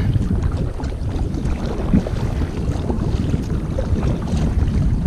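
Wind buffeting the microphone with a steady low rumble, over water sloshing and lapping around a kayak on a choppy lake.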